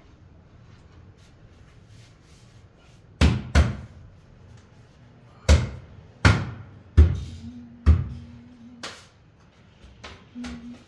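Six loud, sharp knocks at uneven intervals, each with a short ringing tail, like blows struck during tile work. A faint steady low hum is heard in the later part.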